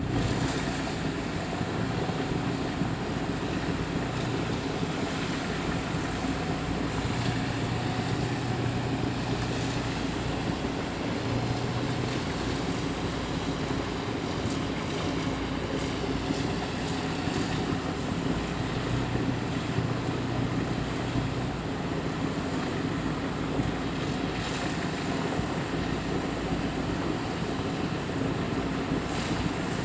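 Generator engine running steadily, powering a package air-conditioning unit: an even mechanical drone with a low hum and a broad rushing noise.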